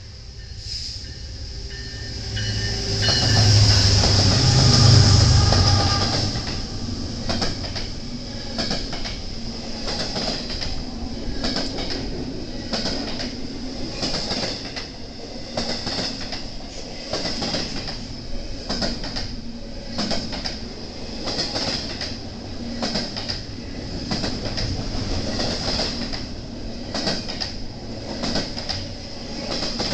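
BNSF intermodal freight train passing: the diesel locomotives go by loudly about three to six seconds in, then the cars roll past with regular clicks of wheels over rail joints and a steady high-pitched wheel squeal.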